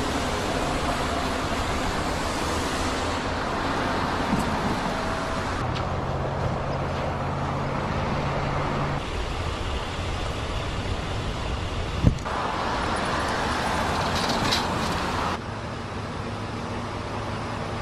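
Steady outdoor noise like road traffic, changing abruptly several times as if cut between recordings, with one sharp click about twelve seconds in.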